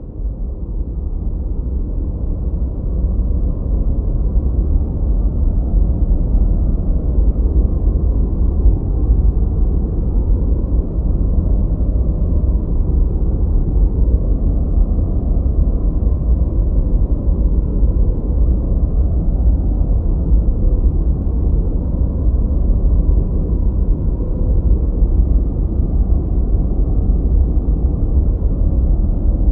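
Continuous generated noise, deep and rumbling, with no high hiss at all, more like brown noise than the white noise it is sold as. It fades in over the first couple of seconds, then holds steady.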